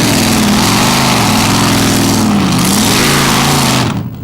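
Two-wheel-drive tractor-pulling funny car's engine revving up and down over and over, the pitch rising and falling in waves. The sound drops away briefly near the end.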